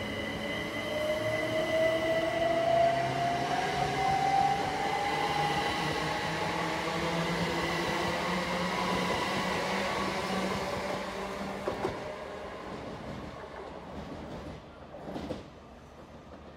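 Great Western Railway train accelerating away, its motors giving a whine that rises steadily in pitch over the first several seconds over a steady higher whine and running rumble. The sound fades from about twelve seconds in as the train draws off, with a brief rustle near the end.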